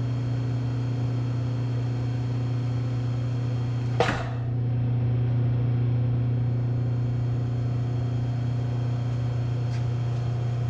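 Bridgeport milling machine running with a hole saw in the spindle: a steady motor hum, broken once about four seconds in by a single sharp bang.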